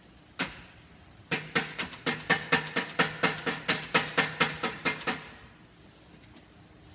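Metal exhaust pipe of a 1982 Honda CM450E being struck to free it from the bike: one blow, then a rapid run of about twenty ringing metallic blows at roughly five a second, stopping about five seconds in.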